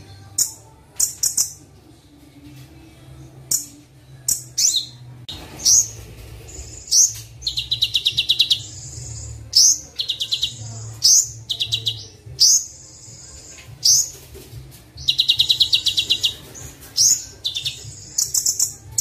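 Sunbird song from a Kolibri Wulung training recording: sharp high chirps alternate with rapid, buzzy trilled phrases of about a second each, repeated several times. A low steady hum runs underneath.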